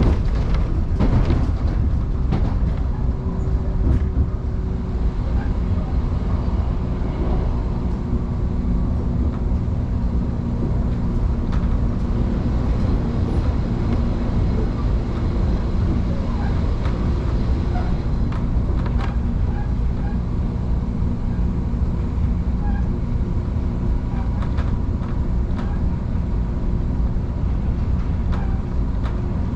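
Electric train running along the track, heard from inside the carriage: a steady low rumble of wheels on rails with a faint motor hum, and a few sharp rail clicks near the start.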